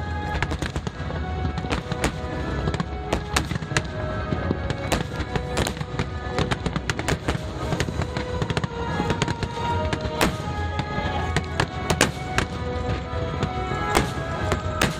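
Fireworks finale: many shells bursting and crackling in quick, uneven succession, with music playing underneath throughout.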